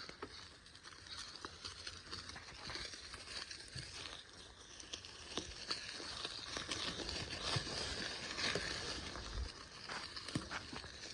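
Bicycle tyres rolling over a dirt trail, a steady crackling and crunching with many small ticks, swelling a little in the middle.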